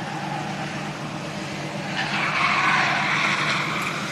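Drift cars at speed: engines droning under the squeal and hiss of tyres sliding, growing louder about halfway through.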